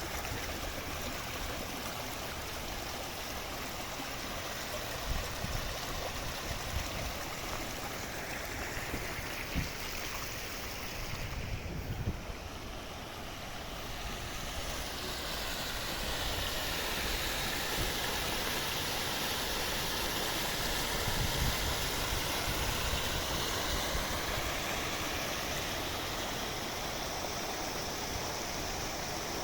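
Guadalmedina river water flowing over its bed, a steady rushing noise, with a few brief low bumps in the first half.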